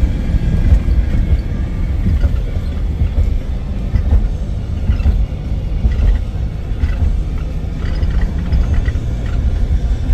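Thunderstorm wind and heavy rain making a loud, steady rumble, with deep wind buffeting on the microphone.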